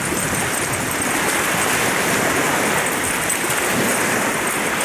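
Waves washing in: a steady rushing noise.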